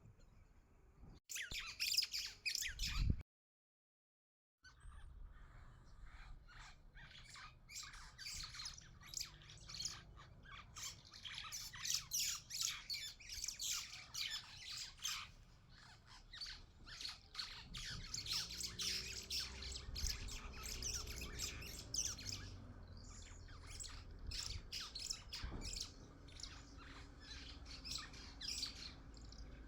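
Birds chirping and squawking rapidly and continuously over a low background rumble, cut by a moment of total silence a few seconds in.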